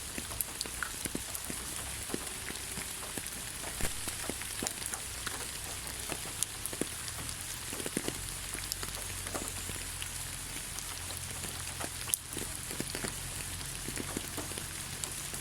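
Steady rain falling on leaves: an even hiss with many separate drops ticking on the foliage.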